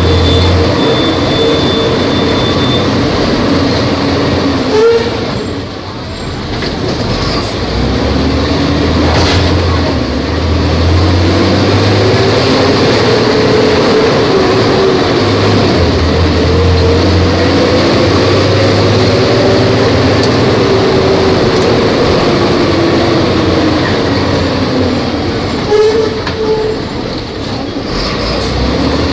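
Volvo B270F bus's diesel engine running under load on the road, its note rising and falling with engine speed. The sound dips briefly twice, about five and twenty-six seconds in, as the revs drop at gear changes.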